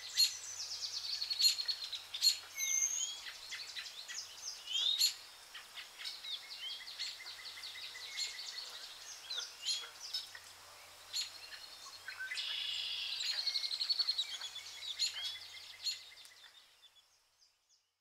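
Birds chirping with short calls and sweeping notes, with a faster trilling stretch about two-thirds of the way through; the sound fades out near the end.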